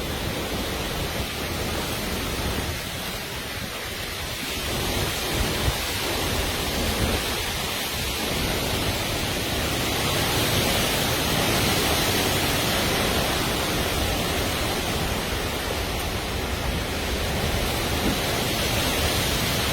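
Storm wind and heavy rain: a steady rush of noise, with gusts buffeting the microphone. It grows a little louder about five seconds in.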